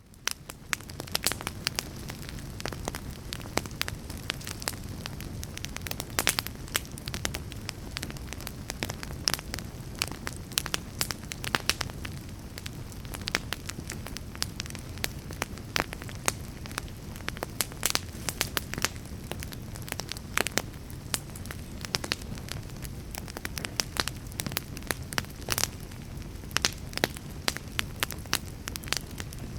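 Fire crackling: a steady low rumble of burning with frequent irregular sharp pops and snaps. It fades in over the first second.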